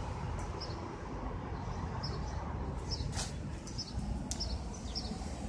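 Small bird chirping: short high notes repeated every half second to a second, over a steady low background rumble, with a few sharp clicks.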